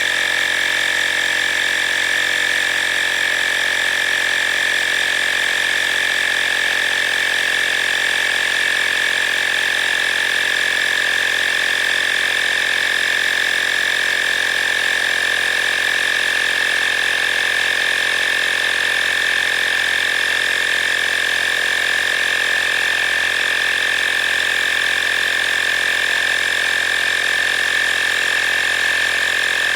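GOOLOO GT150 cordless tire inflator's compressor running steadily, pumping up a car tire toward its preset 33 psi. A constant, even, high-pitched mechanical drone with no change in pitch or level.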